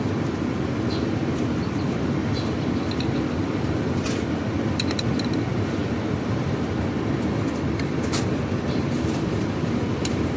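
Steady mechanical rumble, with scattered light metallic clicks and a couple of sharper clicks about four and eight seconds in.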